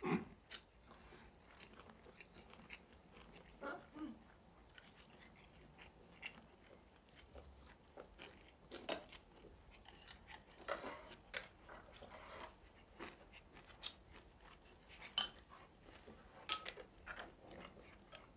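Close-up eating sounds of two people at a home meal: quiet chewing with scattered short clicks.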